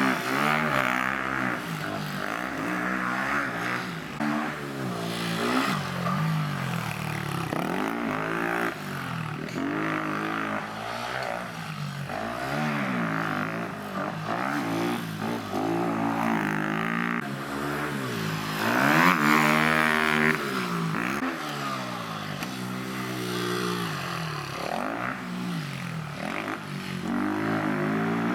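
Vehicle engine revving up and easing off over and over, with its pitch climbing and dropping every second or two as it is ridden hard; the loudest rev comes about two-thirds of the way through.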